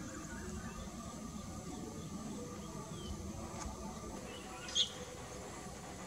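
Steady low outdoor background noise with a faint high steady hum, and one short, high bird chirp a little under five seconds in.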